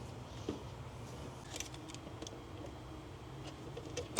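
Quiet garage room tone with a faint low hum and a few faint scattered clicks and taps.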